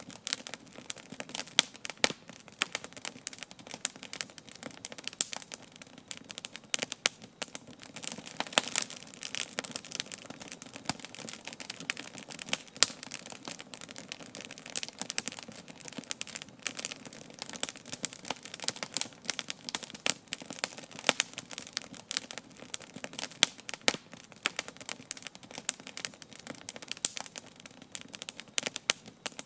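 Wood campfire crackling, with dense irregular pops and snaps.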